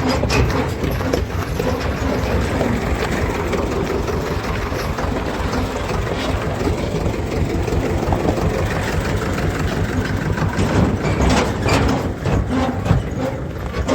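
Tractor engine running steadily, with many short knocks and rattles over it.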